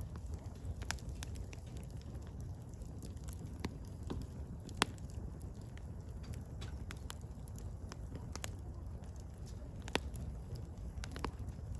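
Firewood burning: a steady low rumble of flames with scattered crackles and pops, two sharper pops about five seconds in and again near the end.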